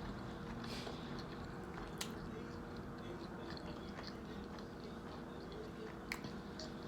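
Close-up chewing of a grinder salad sandwich: soft, wet mouth clicks and small crunches, over a faint steady hum.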